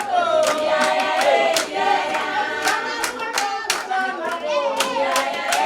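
A group of voices singing together, with steady hand clapping keeping the beat at about three claps a second.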